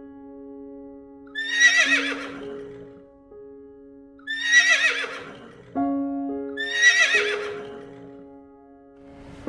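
Horse whinnying three times, each a wavering, high-pitched call about a second long, over background music with held notes.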